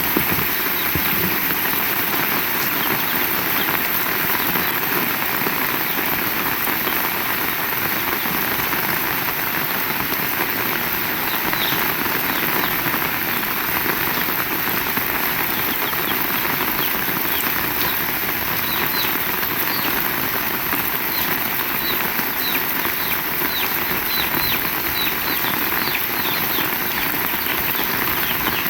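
Heavy rain falling steadily, with a string of short high chirps coming in about halfway through.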